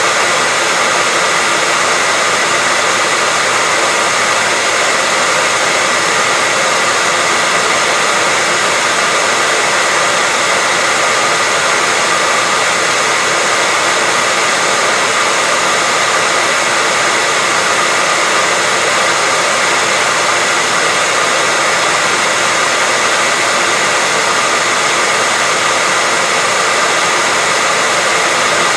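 Electric hairdryer running steadily: a constant rushing of air with a faint steady whine in it, unchanging throughout.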